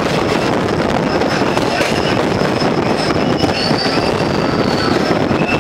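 Train running through a rail tunnel: a loud, steady rumble of wheels on the track, with a thin high wheel squeal over it and people's voices shouting in the noise.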